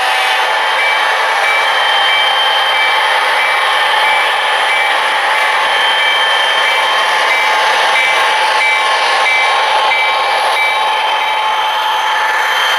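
Model trains running on the layout: a steady mechanical whir and rolling noise with a few constant tones. A high tone repeats at an even rate, about twice a second, stopping about eleven seconds in.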